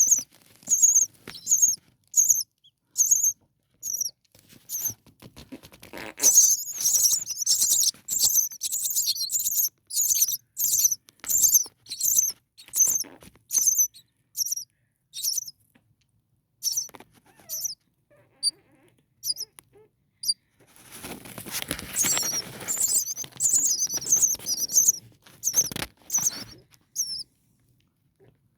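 Starling nestlings, about four days old, cheeping in a steady series of short, high, thin calls, roughly two a second. Two louder, busier bouts of calling with rustling come about six seconds in and again about twenty-one seconds in.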